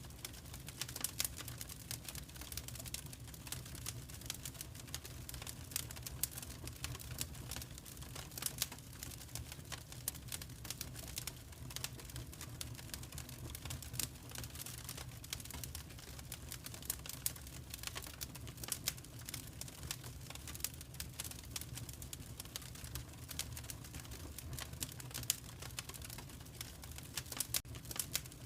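Fire crackling in a fireplace: a steady stream of irregular sharp pops and snaps over a low, even rumble.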